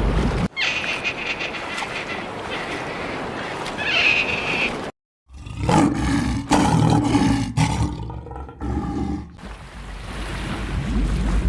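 Animal calls in short, abruptly spliced clips: a high-pitched steady call first, then after a brief dead-silent gap several deeper pitched calls.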